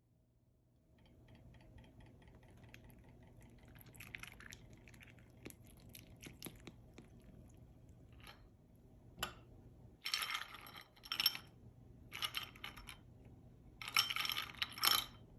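Ice cubes and fruit clinking and rattling as they are tipped into a bowl: light scattered clicks at first, then three louder bursts of clattering in the second half.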